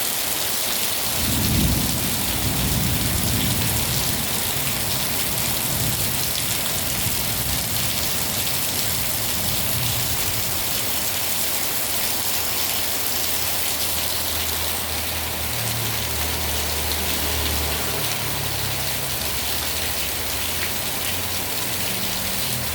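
Heavy rain pouring steadily, with a low rumble of thunder starting about a second in and rolling on for a few seconds.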